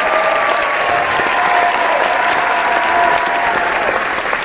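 An audience applauding: dense, continuous clapping at a steady level, with a few long, wavering high tones drifting over it.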